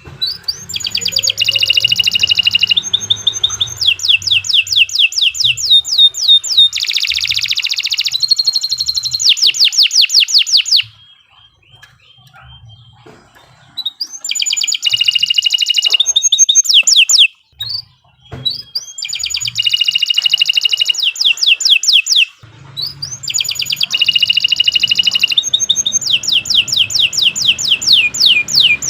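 Domestic canary singing vigorously in long rolling trills: fast runs of repeated high notes and quick downward sweeps, strung into phrases several seconds long. The song breaks off for a few seconds near the middle and again briefly later.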